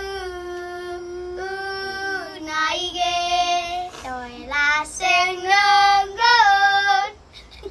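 A child's voice singing a slow melody alone in long held notes, with no accompaniment.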